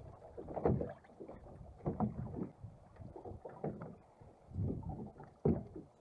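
Water slapping and lapping against the hull of a small fishing boat in irregular surges, with wind buffeting the microphone.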